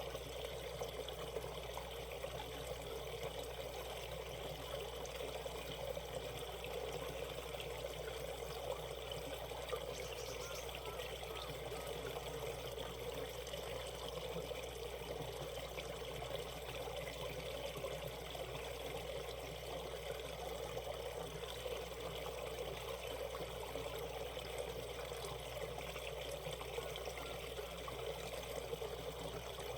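Valley stream water flowing and trickling steadily, an even rushing with no breaks.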